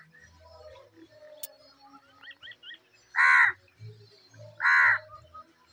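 A bird calling loudly twice, about a second and a half apart, each call lasting about half a second, with a few faint chirps of smaller birds shortly before.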